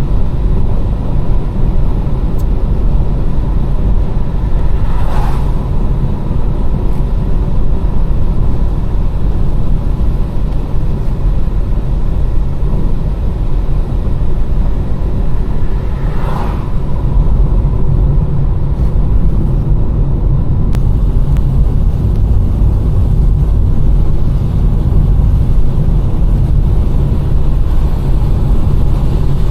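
Car driving on a wet road: a steady, loud, low rumble of tyres and engine. Two brief swishes stand out, about five and sixteen seconds in.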